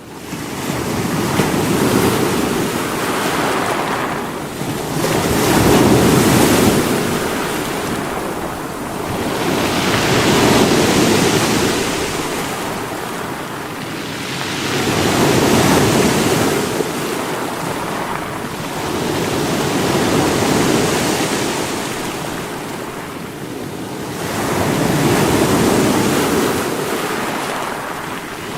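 Sea waves breaking on rocks, a rushing surge that swells and ebbs about every five seconds, six times.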